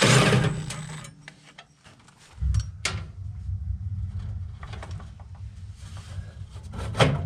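Parts being handled inside an HVAC unit during teardown: a loud scraping rustle at the start, then scattered clicks and knocks of metal parts and wiring being moved. A low steady rumble comes in about two and a half seconds in and continues under the handling.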